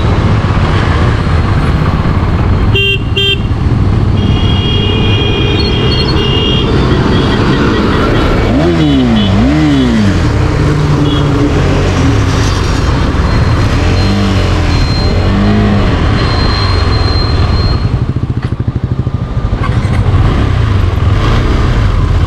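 KTM 390 Adventure's single-cylinder engine running on the move, with revs rising and falling twice in quick succession about midway. Other vehicles' horns honk: short beeps, then one held for about two seconds.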